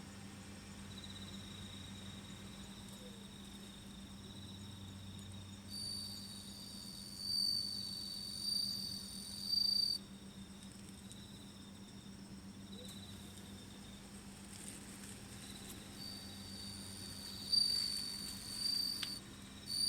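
Singing insects: a fainter high trill keeps going throughout, while a louder, higher trill comes in and stops in spells of a few seconds, twice, over a steady low hum.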